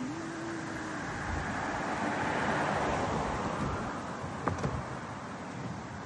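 A car passing by: its rushing road noise swells to a peak two to three seconds in, then fades away. A single sharp click a little after four seconds.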